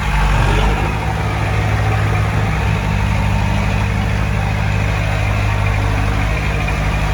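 Heavy diesel engine of earth-moving equipment running steadily, with a deep, even hum.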